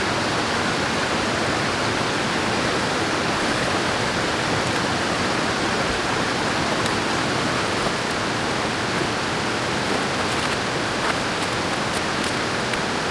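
Mountain river water rushing steadily, an even hiss that does not change, with a few faint clicks in the last few seconds.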